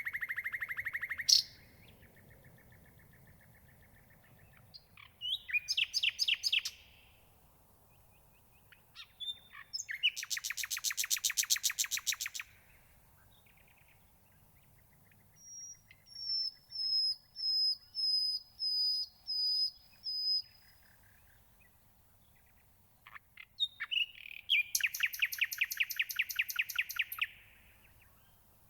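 Nightingale singing: five phrases of fast repeated notes and rattling trills, each a second to a few seconds long, separated by pauses of a few seconds. The middle phrase is a run of about nine clear, high whistled notes.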